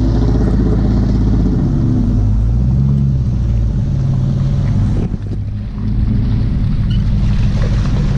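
Jeep Grand Cherokee's 4.7 L V8 running through a Flowmaster 40 Series exhaust under load, its pitch rising and falling with the throttle. It eases off briefly about five seconds in, then picks up again.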